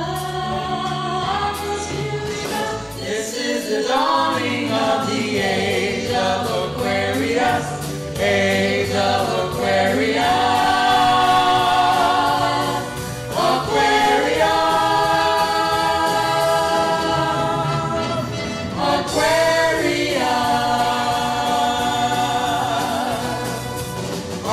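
A vocal group sings in close harmony over instrumental accompaniment, with several long held chords.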